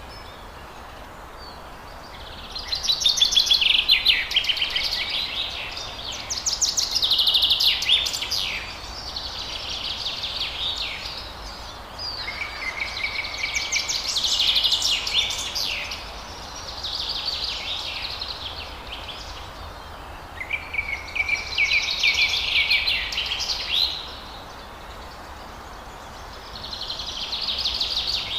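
Forest birds singing: about eight phrases of rapid trilled notes, each a second or three long with short pauses between, over a faint steady background hiss and low hum.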